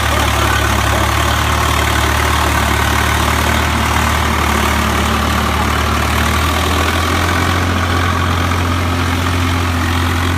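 Tractor diesel engine running steadily at low revs, a loud, even low hum.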